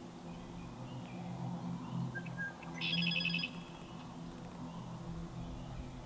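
A songbird's short, rapid, high trill about three seconds in, with a brief thin whistle just before it, over a steady low hum of background sound.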